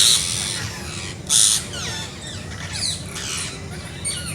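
Parrots chirping and squawking: many short rising and falling calls overlap, with loud harsh squawks at the start and again about a second and a half in. A steady low hum runs underneath.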